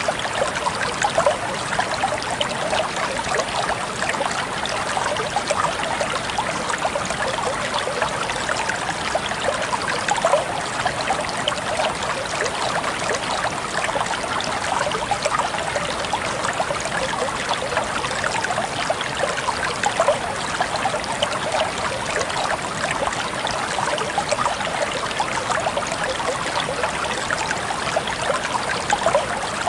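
Small stream running steadily, its water trickling and burbling.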